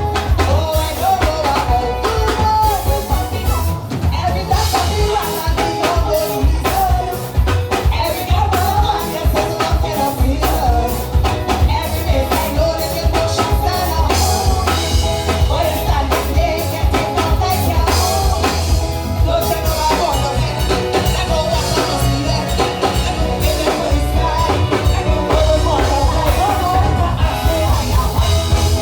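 Live soca music played loud through a concert sound system: a singer over a driving drum beat and heavy bass.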